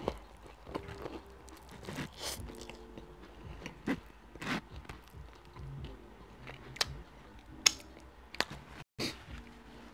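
Close-up mouth sounds of chewing a mouthful of roast sandwich on bread: wet chewing with scattered sharp clicks and smacks.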